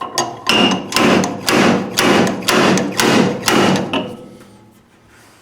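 Repeated metal strikes of a dent puller working a dent out of an MGA's steel body panel: about eight blows, two a second, stopping about four seconds in.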